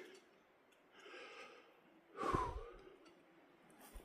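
A man's breathing, with one short sigh about two seconds in.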